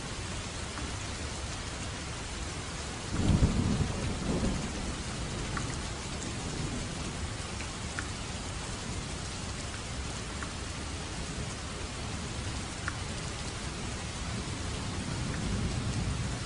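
Steady rain falling, with a short clap of thunder about three seconds in and a softer low rumble near the end.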